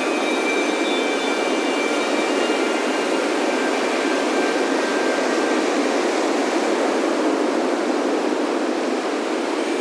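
Ocean surf washing in a steady, continuous rush. Wind chimes ring lightly over it, their tones fading away about halfway through.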